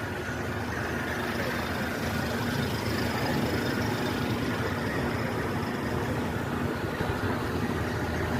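Steady rumble of vehicle traffic, continuous and even.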